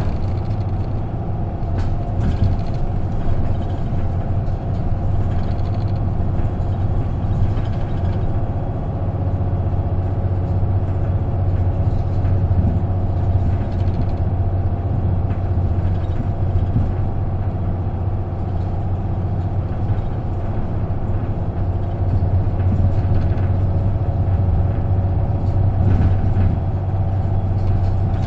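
Isuzu KK-LR233J1 non-step bus heard from inside the cabin while under way. Its diesel engine holds a steady low drone at near-constant revs, with road noise and a few faint rattles.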